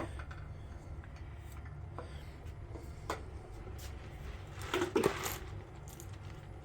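Engine parts being handled on the block: a few faint clicks, then a short clatter of metal parts about five seconds in, over a low steady hum.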